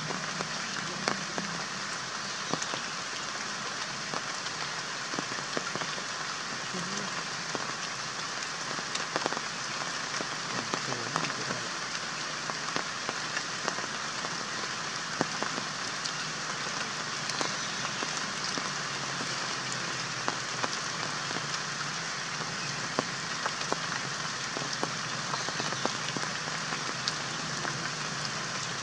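Rain pattering: a steady hiss with many scattered light ticks.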